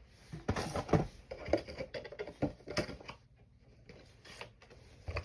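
Cardboard and plastic packaging of a boxed figure being handled and opened: irregular crackling, rustling and clicking, busiest in the first three seconds, with a few further clicks later.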